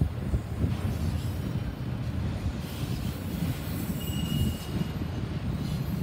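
Freight train autorack cars rolling past: a steady low rumble of steel wheels on rail. About four seconds in, a brief thin wheel squeal sounds.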